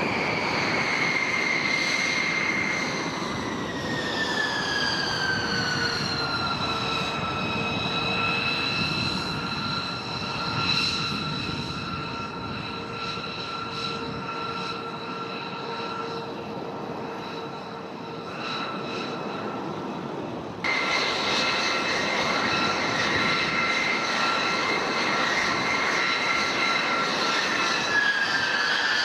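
Jet aircraft engine running with a steady rush and a high whine. The whine falls in pitch between about four and seven seconds in, jumps up abruptly and louder about 21 seconds in, and starts falling again near the end.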